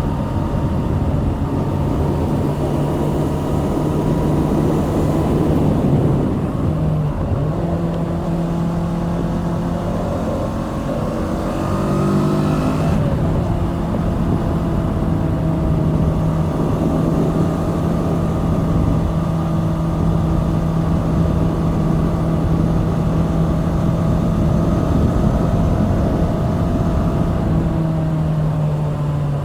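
Kawasaki Z650's 649 cc parallel-twin engine pulling along on the road, its note mostly steady with a couple of brief shifts in pitch near the middle, over a rush of wind noise.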